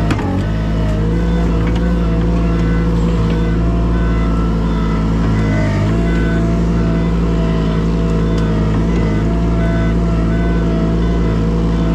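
An engine running steadily at a constant speed, with a short knock right at the start.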